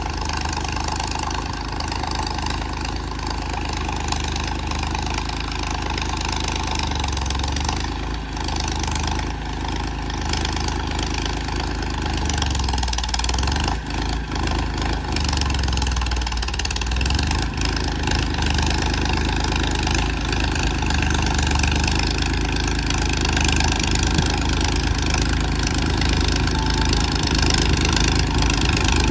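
Farmtrac 41 tractor's diesel engine running steadily while pulling a nine-tine cultivator.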